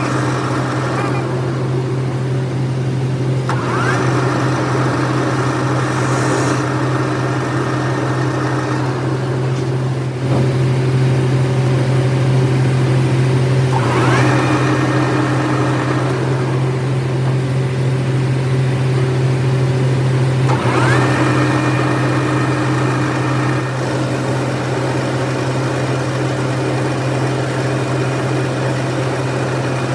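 Workshop machine running with a steady low hum. Three times a higher-pitched motor whine rises quickly and then holds for several seconds.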